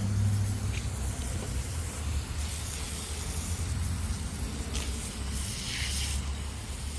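Water spraying and hissing as the sawmill cut is sprayed down, strongest in the middle seconds, over a steady low hum.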